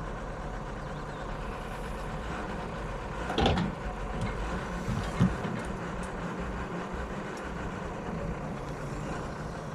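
Heavy diesel engine of a Hyundai excavator running steadily while loading a dump truck. A loud knock comes about three and a half seconds in, and a short sharp one around five seconds in.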